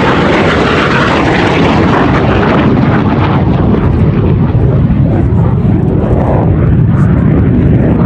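MiG-17 jet fighter flying past in a display, its jet engine noise loud and continuous, with a pitch that sweeps down and back up as it passes.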